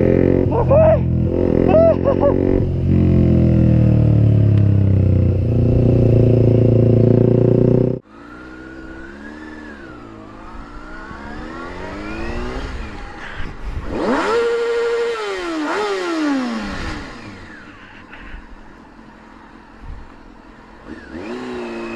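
Traffic heard from a moving motorcycle: a loud, steady engine and road noise, then after a sudden cut about 8 seconds in, a quieter engine whose pitch rises and falls several times, loudest just past the middle.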